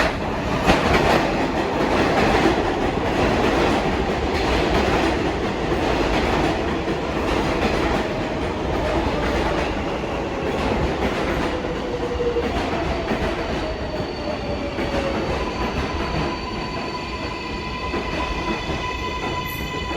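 An R188 subway train pulling into the station, its wheels clacking over the rail joints and its motors whining lower in pitch as it brakes. Near the end it sits at a stop with a steady high whine.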